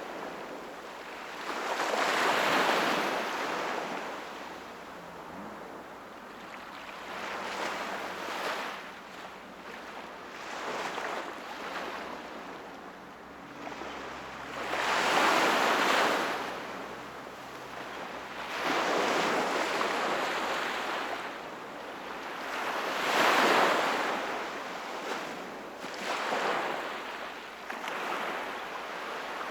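Sea waves washing in, swelling and falling away every few seconds, with the biggest surges about two seconds in, around the middle, and about two-thirds of the way through.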